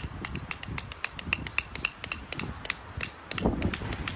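A metal tent stake being hammered in with quick taps, about four a second, each a sharp clink with a short ring, over wind rumbling on the microphone. A stronger gust of wind noise comes about three and a half seconds in.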